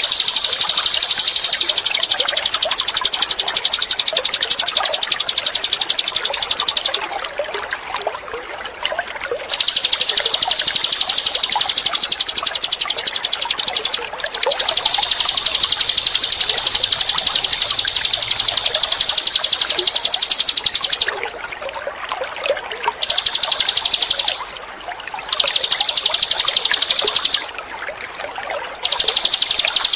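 Ninin eurih songbird singing long, high, rapid buzzing trills, each lasting several seconds with short breaks between them. A steady trickle of running water goes on underneath.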